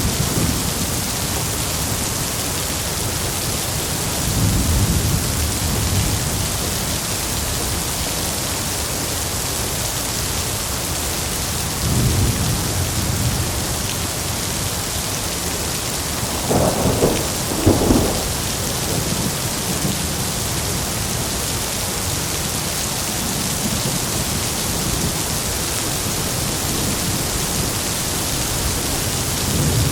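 Heavy rain falling steadily with rolling thunder: low rumbles a few seconds in and again around the middle, then a louder, sharper double crack of thunder just past halfway.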